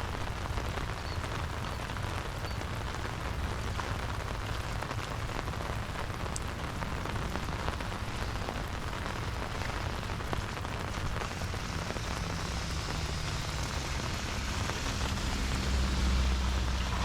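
Steady rain falling, an even hiss of drops on wet surfaces. A low rumble builds in the last few seconds and becomes the loudest part.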